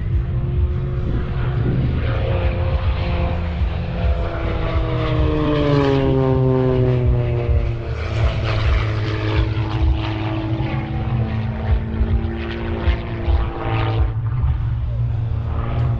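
Propeller aerobatic plane's engine running loud, its pitch sliding down about halfway through as the plane passes by.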